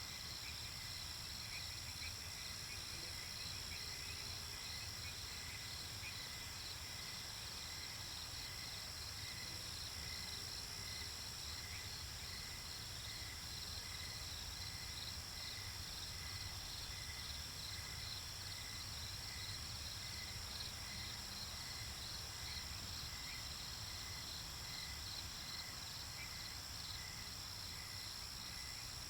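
Night-time nature ambience: crickets chirping in a regular pulsing rhythm over a continuous high insect trill, with a low steady rumble underneath.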